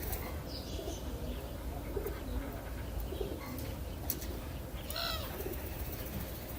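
Birds calling: several short low-pitched calls, with a brighter higher call about five seconds in, over a steady low background rumble.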